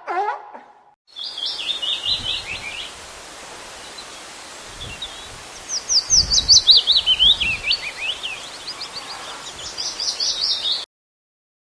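Songbird singing: quick chirps and fast trilled phrases that slide down in pitch, over a steady outdoor background hiss. It starts about a second in, after the last moment of a different pitched animal call, and cuts off abruptly shortly before the end.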